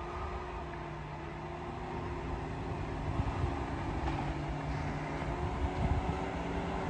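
A large vehicle engine running steadily with a low rumble, growing slightly louder toward the end.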